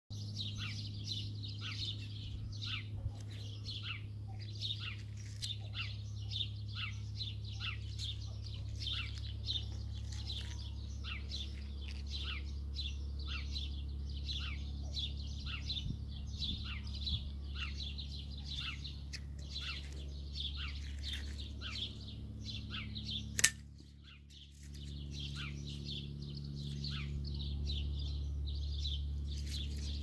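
Birds chirping: a quick falling chirp repeated about two or three times a second over a steady low hum. A single sharp click stands out about three quarters of the way through.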